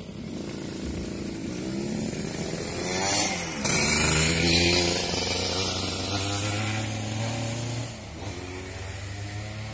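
Motor vehicle engine running. The engine noise peaks about three seconds in as its pitch glides, like a vehicle passing close by, then settles into a steady low hum.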